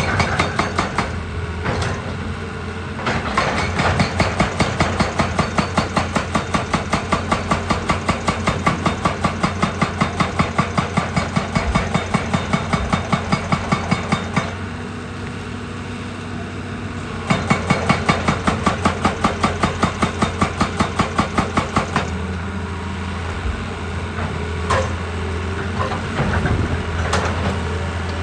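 Heavy machine's diesel engine running steadily, with two long spells of rapid rhythmic hammering at about four blows a second, one starting a few seconds in and a second one starting just past the middle.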